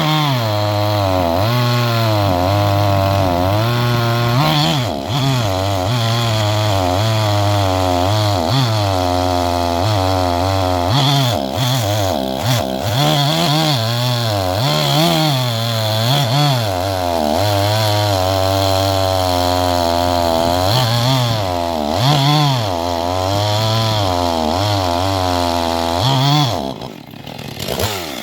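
Gas chainsaw with a 24-inch bar cutting through a large log at full throttle, its engine pitch repeatedly sagging and recovering as the chain bites into the wood. Near the end the throttle is let off and the engine drops toward idle.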